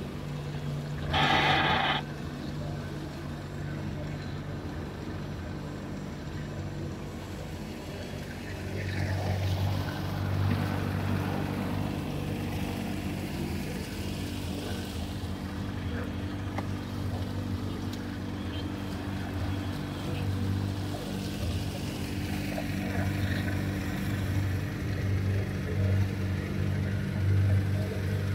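Boat engine running steadily with a low hum, growing louder about nine seconds in. A short, loud burst of sound cuts in about a second in.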